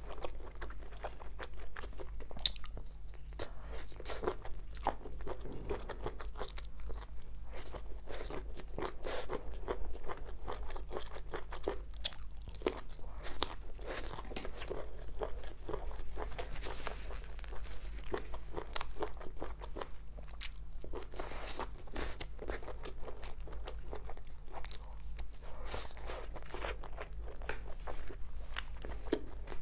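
Close-up eating sounds: many short crunches from biting and chewing skewered food, with a steady low hum underneath.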